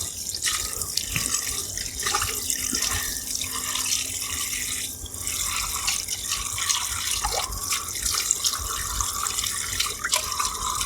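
Water running from a camp rain-shower bag and splashing into a small camping wash basin during washing up, with small clicks of dishes and a brief lull about five seconds in.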